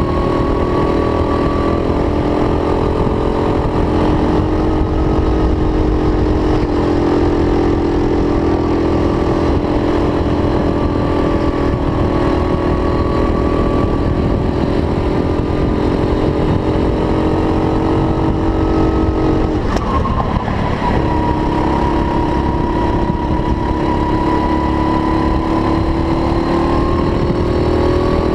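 Go-kart engine running at racing speed, its pitch rising and falling gently as it is throttled through the corners. About twenty seconds in it backs off briefly, drops in pitch, then picks up again.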